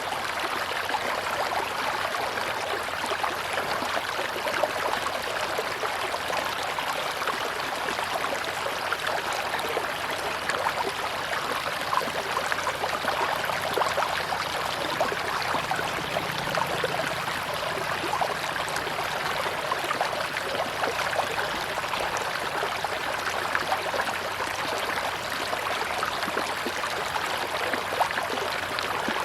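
A tropical river flowing steadily: a continuous rush of water with many small splashes and gurgles throughout.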